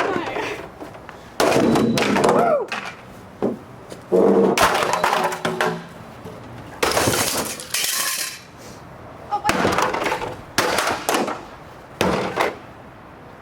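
Repeated heavy blows smashing a refrigerator's ice maker, with plastic and fittings cracking, breaking and clinking. There are about six or seven crashes, a second or two apart.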